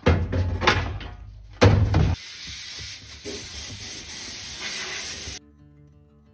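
Sandblaster blasting a rusted metal part with compressed air: two loud rumbling blasts in the first two seconds, then a steady hiss that cuts off suddenly about five seconds in. Quiet acoustic guitar music follows.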